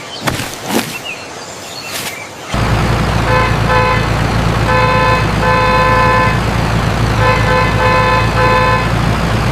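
Cartoon sound effects: a few knocks, then about two and a half seconds in a vehicle engine starts running with a steady low rumble. Over the engine a horn honks in two runs of short toots.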